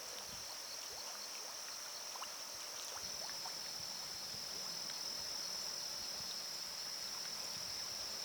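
Insect chorus: a steady high-pitched drone that grows a little louder about three seconds in, with faint scattered short chirps.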